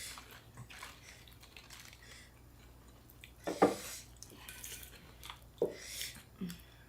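Quiet mealtime table sounds: soft clinks of dishes and utensils and wet handling of food, with a few brief knocks and short murmurs scattered through.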